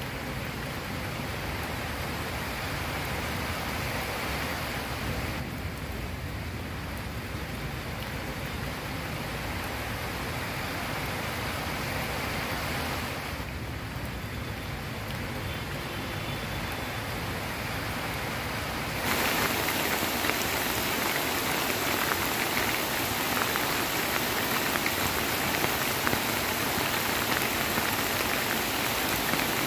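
Rain falling steadily, a dense even hiss of drops hitting surfaces, which grows louder and sharper about two-thirds of the way through.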